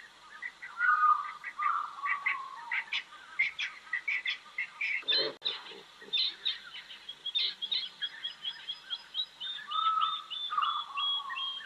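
Several birds calling: short high chirps, a few slurred downward calls, and from about eight seconds on a fast run of repeated high notes. A brief lower-pitched sound comes about five seconds in.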